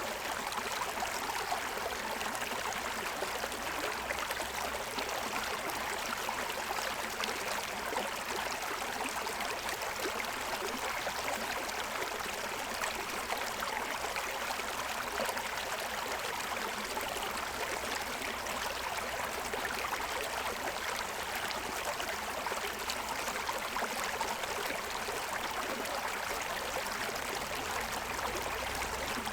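Forest stream running and splashing over the stones of its bed: a steady, even rush of water.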